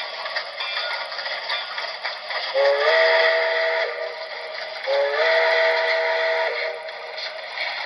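Steam whistle from the onboard sound system of a Broadway Limited Imports HO scale Shay model locomotive, played through its small speaker: two blasts of about a second and a half each, the pitch stepping up as each one starts.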